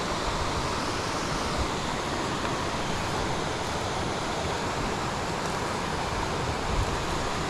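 Steady rushing of river water over rocks, an even unbroken roar, with occasional low rumbles of wind on the microphone.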